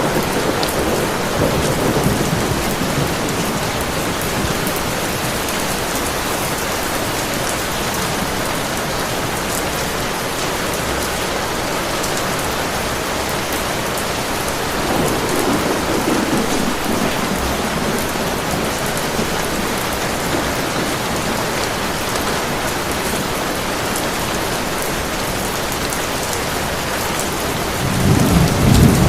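Heavy rain falling steadily, with low rolls of thunder rumbling in three times: at the start, about halfway through, and near the end.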